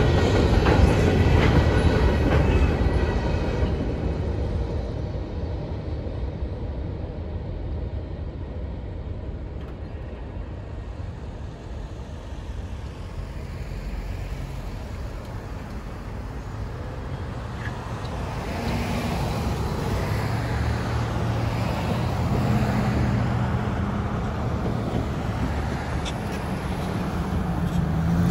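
Freight train cars rolling past, their wheels clicking over the rail joints, with the rumble fading away over the first several seconds as the train recedes. Later a road vehicle's engine hum builds up and grows louder toward the end.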